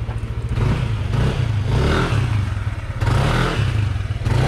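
Yamaha NMAX 155 scooter's single-cylinder engine running, revving up in several surges on a brake test ride after new rear brake pads.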